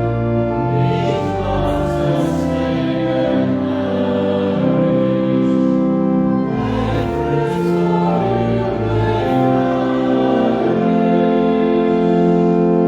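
A hymn sung by a choir or congregation with instrumental accompaniment, in sustained chords that change every second or so.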